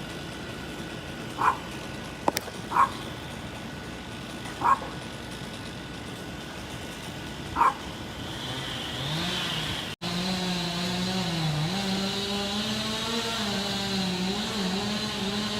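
A dog barks four times, a few seconds apart, over steady background noise. About nine seconds in, an engine starts running with a wavering pitch and stays on.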